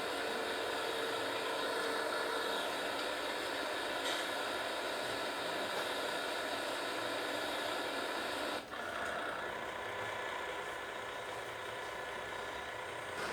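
Steady mechanical running noise with a mix of faint steady tones, like an engine or machine, briefly dipping about two-thirds of the way through and stopping abruptly at the end.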